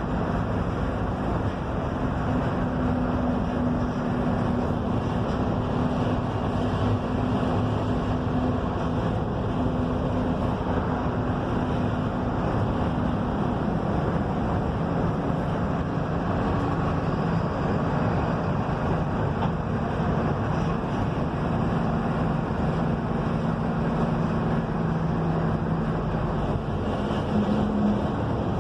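Mercedes-Benz OF-1721 BlueTec 5 bus running at speed, heard inside the cabin as a steady engine hum over road and wind noise. The engine note drops lower around the middle and climbs again near the end.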